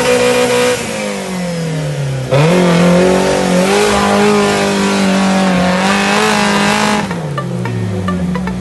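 Engine of an off-road 4x4 working under load as it climbs through a dirt pit. The revs sag for about a second and a half, jump sharply about two seconds in and are held high, then drop away near the end.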